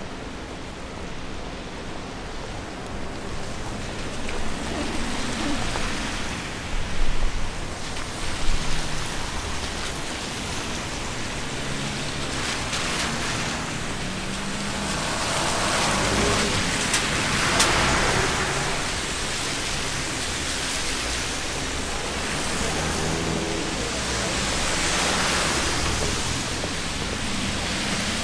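Steady rain hiss on a wet street, swelling louder in the middle, with a few low bumps about seven to nine seconds in.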